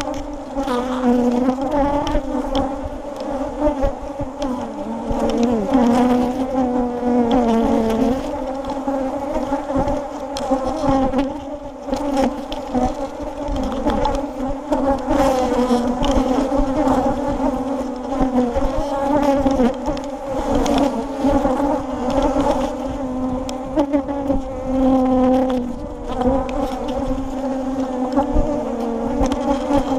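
A mass of honeybees buzzing around an open hive: a dense, continuous hum whose pitch wavers slightly as the swarm shifts.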